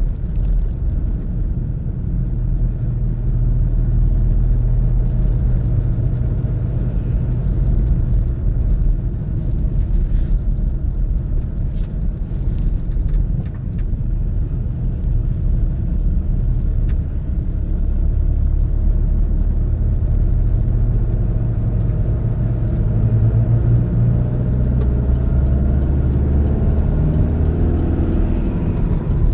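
Car driving along a road: a steady low engine and road rumble, with the engine note shifting up and down over the last few seconds.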